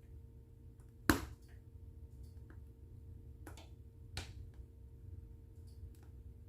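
Wood fire burning in a fireplace, crackling irregularly over a low steady rumble, with one sharp pop about a second in and two more a few seconds later.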